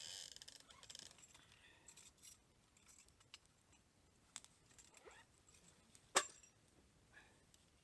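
Small clicks and rustling of objects being handled, with one sharper click about six seconds in.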